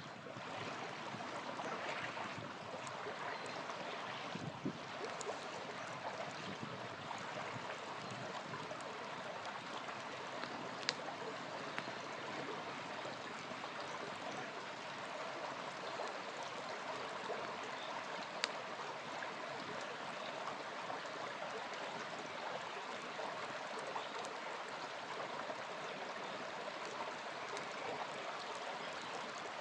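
Small river flowing steadily, with a few sharp pops from the campfire burning beside it, two of them louder, in the middle.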